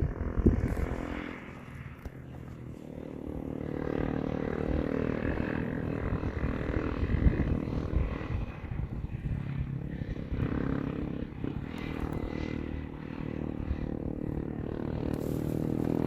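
Motorcycle engine running steadily while riding, its pitch rising and falling a little. There are a few sharp knocks in the first second.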